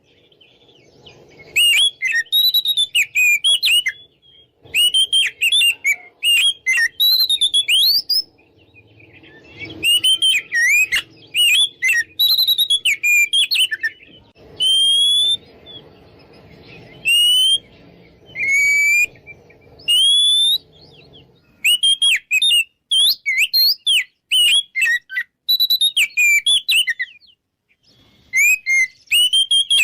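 Oriental magpie-robin (kacer) singing: loud, varied phrases of clear whistled notes that rise and fall, delivered in quick bursts with short pauses between them.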